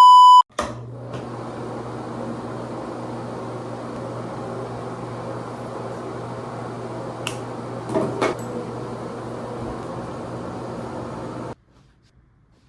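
A short, loud electronic beep at one steady pitch, then a steady low mechanical hum with a few sharp clicks partway through. The hum cuts off suddenly near the end.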